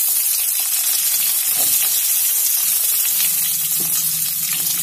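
Chopped onions sizzling in hot mustard oil in a steel karai, a steady hiss with fine crackling as they start to fry.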